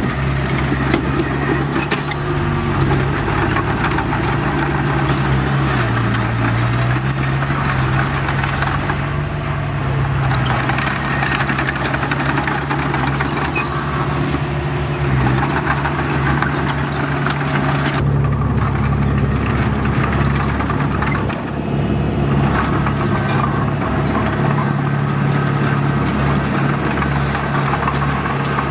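Bulldozer's diesel engine running steadily at work, with clattering from the machine; the engine note changes about eighteen seconds in.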